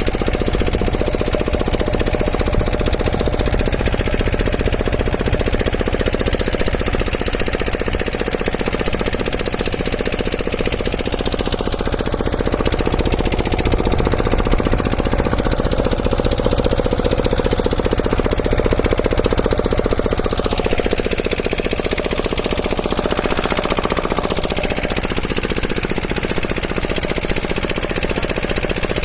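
A machine running steadily with a rapid, even knocking.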